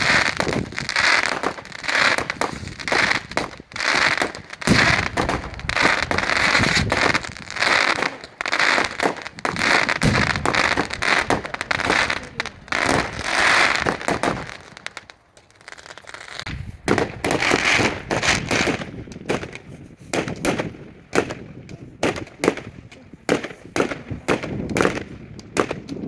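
Bonfire Night fireworks display: a dense, rapid run of bangs, with a short lull about fifteen seconds in before the bangs resume.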